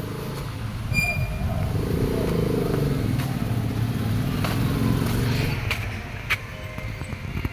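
A motor vehicle engine running as it passes, growing louder from about a second in and fading after about six seconds.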